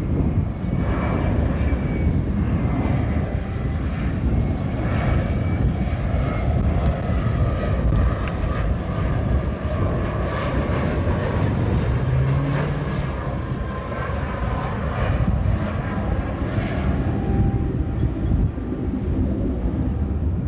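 Jet airliner passing by with steady engine rumble and a faint high whine that slowly falls in pitch.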